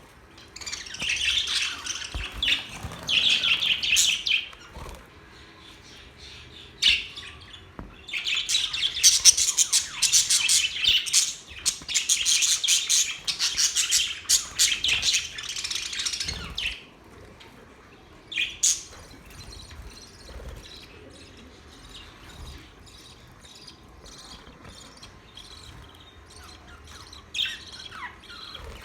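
Budgerigars chirping and singing in rapid, busy chatter: two long loud bouts, then only scattered faint chirps with an occasional single call.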